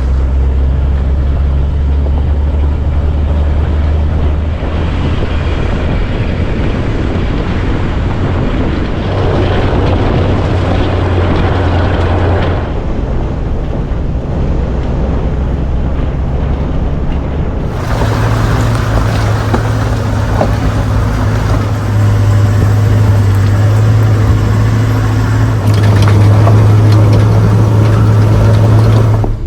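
Vehicle engine running steadily while driving along a dirt road, its low drone shifting in pitch a few times over road and wind noise. About 18 seconds in the sound turns brighter and louder.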